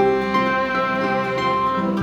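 Acoustic band playing an instrumental passage: guitar with long held melody notes over it.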